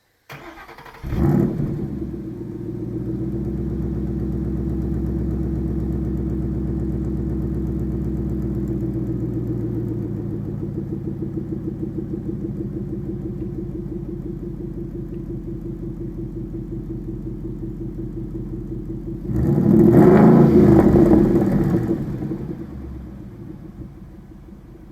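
2013 Mustang GT's 5.0 L V8 starting through side-exit exhaust pipes: it catches about a second in with a flare, then runs at a steady idle that settles a little lower partway through. Near the end it is revved once for about two seconds, then drops back to a quieter idle.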